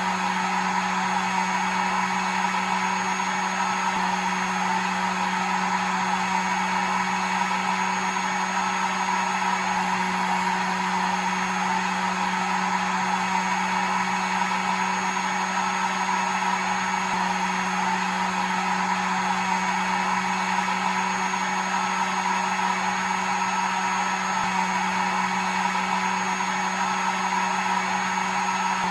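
Hair dryer running steadily: a constant blowing noise over a low motor hum, used as white noise to settle a baby to sleep.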